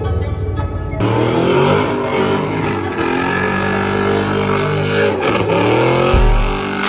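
A vehicle engine, likely a show truck's, running loudly and being revved, its pitch dipping and then rising again about five seconds in.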